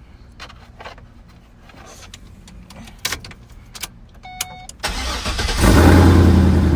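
A few quiet clicks and a short electronic chime, then about five seconds in a car engine cranks, fires and runs up to a loud, steady fast idle.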